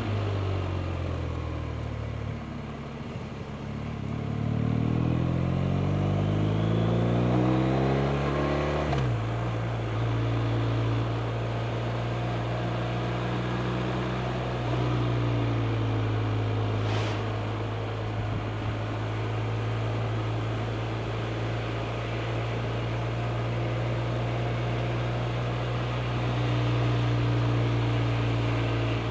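BMW R 1250 RT's boxer-twin engine pulling hard with its pitch rising for several seconds, then dropping at a gear change and holding a steady cruising note. Steady wind and road hiss sits under it, and there is one brief click partway through.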